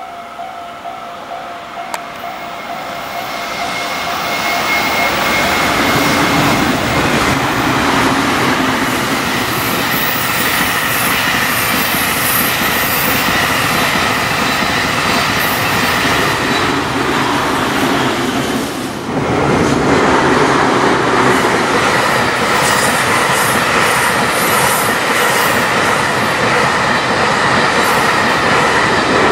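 JR Freight M250 series "Super Rail Cargo" electric container train rushing past at speed, its wheels running loud over the rails, with a Japanese level-crossing alarm ringing. The noise builds over the first few seconds as the train arrives, dips briefly about two-thirds of the way through, then stays loud.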